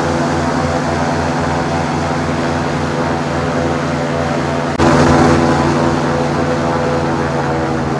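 Airboat's engine and air propeller running steadily at cruising speed, a loud droning hum with a fast low throb; the level jumps up abruptly just under five seconds in.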